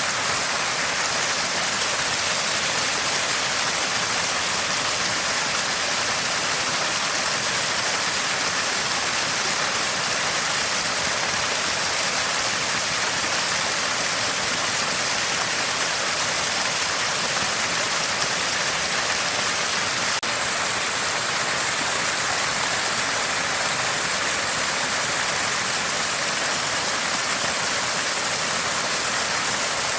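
Water from a small spring gushing and splashing steadily, a constant gurgle of running water.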